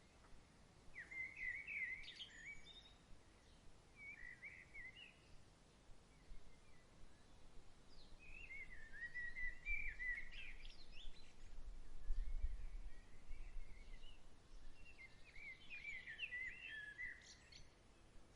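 A songbird singing four short warbled phrases, the longest near the middle, over a faint steady outdoor background. A soft low rumble, like a breeze on the microphone, swells around the middle.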